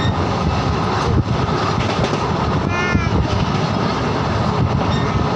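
Train running at speed: a steady heavy rumble with scattered short knocks. About three seconds in, a brief high pitched sound with several tones sits over it.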